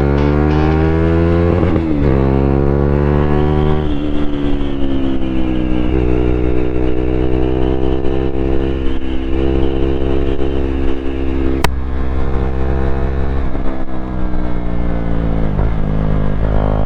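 KTM Duke 390's single-cylinder engine running through an unbaffled aftermarket exhaust while riding. Its revs drop and climb again at gear changes about two and four seconds in and twice more near the end, with steady running in between. A single sharp click comes about twelve seconds in.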